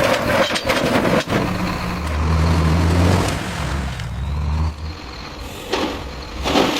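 A heavy vehicle's engine running with a low drone, strongest between about two and five seconds in, with a sharp click early and short bursts of hiss near the end.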